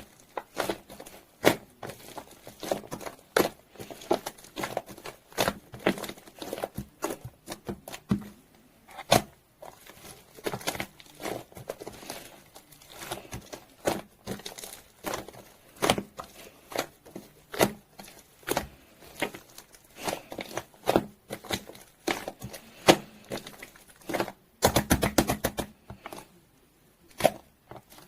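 Foam slime being squeezed and pressed by hand, its air pockets popping in irregular crisp clicks and crackles, with a quick flurry of rapid pops near the end.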